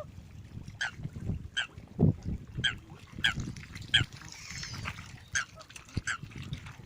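Waterbirds calling: a string of short, sharp calls, roughly one every second, over a low rumbling noise.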